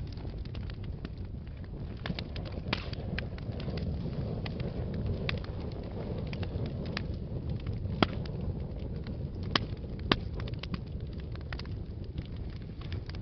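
Wood fire burning in a fireplace: a steady low rumble of flames under frequent sharp crackles and pops, with the loudest pops about eight and ten seconds in.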